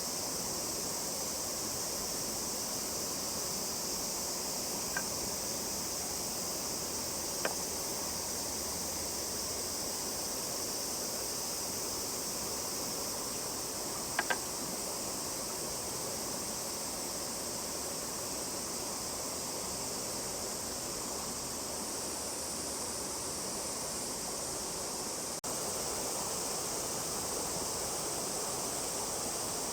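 Steady rushing of a flowing river, with a few sharp pops from a wood campfire.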